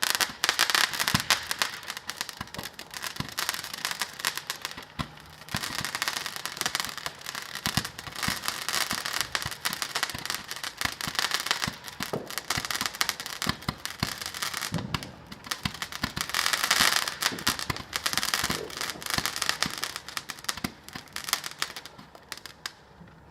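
A barrage of fireworks crackling and popping in rapid, continuous succession, with a few deeper bangs among the crackles, easing off near the end.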